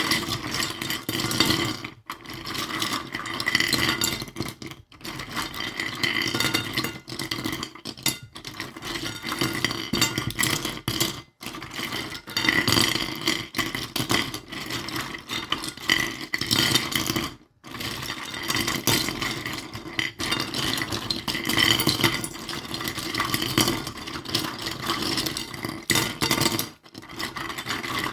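Tiny collectible toys handled and played with: a busy run of light clinks, rattles and scrapes of small hard pieces, broken by several brief pauses.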